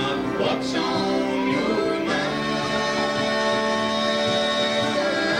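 Live gospel band playing a slow song on guitar, bass and piano, with singing over held notes.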